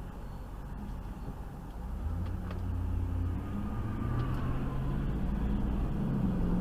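Car driving, with low engine and road rumble that grows louder about two seconds in, and a few faint clicks.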